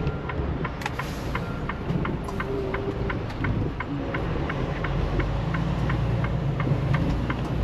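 A semi truck's diesel engine running, heard from inside the cab, with a low rumble that gets louder about five seconds in. A steady ticking at about three clicks a second runs over it.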